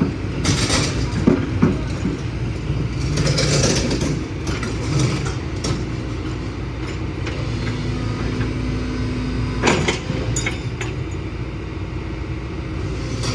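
Heavy vehicle engine running steadily, with several sharp metallic knocks.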